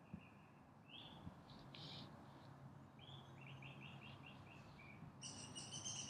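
Songbirds chirping in a forest: a rising chirp about a second in, then a quick series of short notes, and a louder run of chirps near the end. A faint low hum runs underneath.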